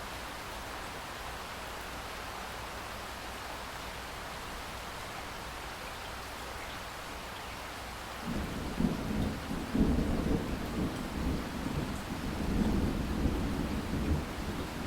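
Steady rain with a thunderstorm: about halfway through, a long rolling rumble of thunder breaks in over the rain and keeps going.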